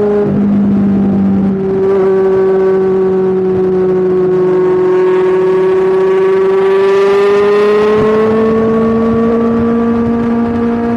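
Kawasaki Ninja 1000's inline-four engine and exhaust running under way at a steady, fairly high pitch, with the note climbing slightly about seven seconds in.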